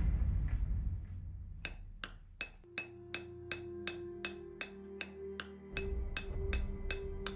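Hammer striking a steel chisel into volcanic stone in an even rhythm of about three blows a second, starting about a second and a half in, over background music.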